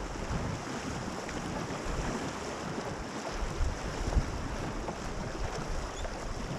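River water rushing steadily around a raft, with wind buffeting the microphone in irregular low gusts.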